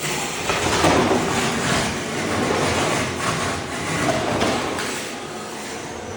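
Ride-on floor stripper's blade scraping thin-set tile mortar off a concrete slab: a loud, rough scraping noise that swells about half a second in and eases off after about four seconds.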